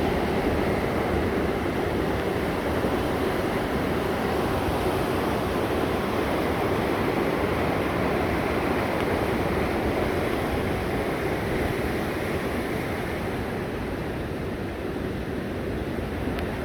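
Gorge stream rushing over rocks, a steady rush of water that eases slightly near the end.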